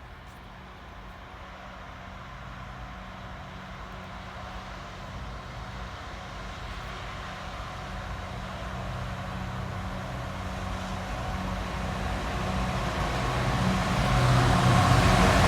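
GBRF Class 66 diesel locomotives, with two-stroke V12 engines, approaching with a freight train. A low, steady engine drone grows steadily louder as they near.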